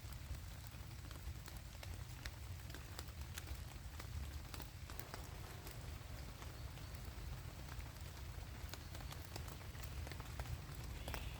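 Steady rain falling, with many scattered sharp ticks of drops striking.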